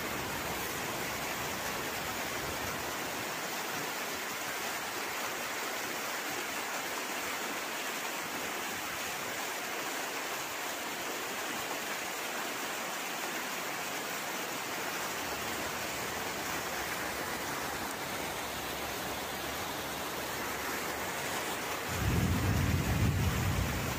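Heavy rain and rushing floodwater making a steady hiss. Near the end a louder low rumble joins in.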